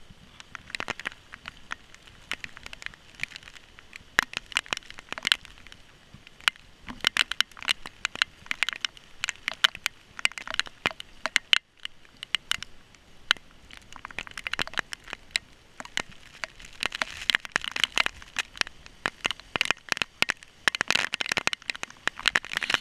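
Heavy hurricane rain pelting down, heard as a dense, irregular run of sharp clicks from drops striking close by over a faint hiss. The sound cuts out for a moment about halfway through.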